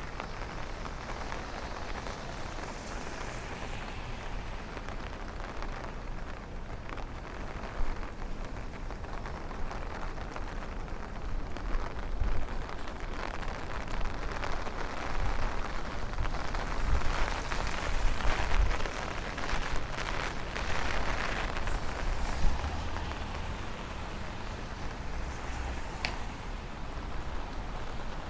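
Steady rain falling on a city street, with many small drops ticking; it grows heavier for a stretch through the middle, over a low rumble.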